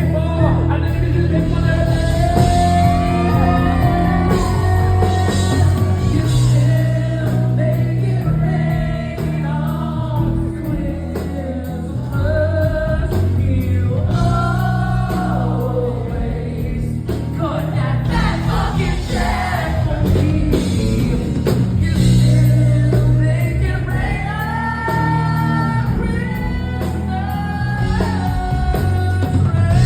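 Live song performance: a singer's voice carrying a melody over a band, with held bass notes that change about every second or two.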